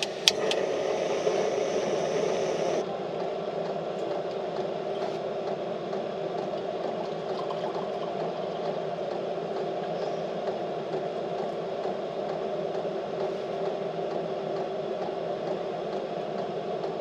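Portable gas camp stove burner running steadily, heating water for coffee, just after a quick click of its igniter at the start.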